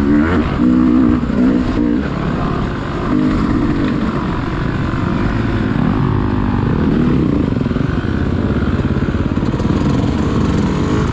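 Dirt bike engine running under changing throttle, its pitch rising and falling repeatedly as it revs up and eases off.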